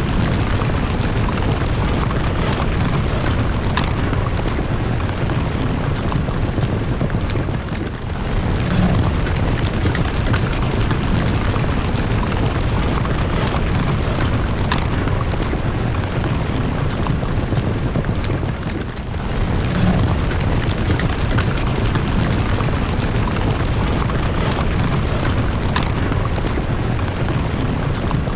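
A loud, steady low rumble of noise, with a few faint, brief high ticks now and then.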